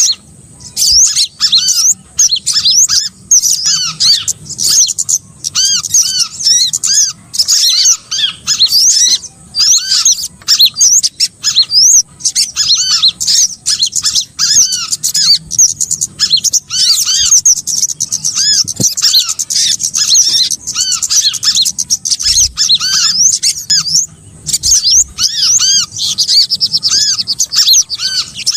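Bird-lure recording of small birds calling: a dense, continuous chatter of quick, high, arching chirps, many overlapping at once.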